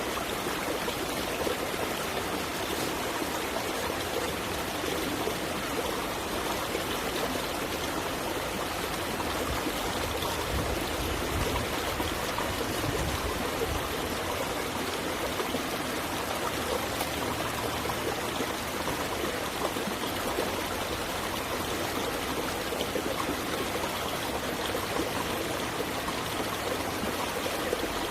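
Water flowing steadily in a stream, a constant rushing wash with no breaks.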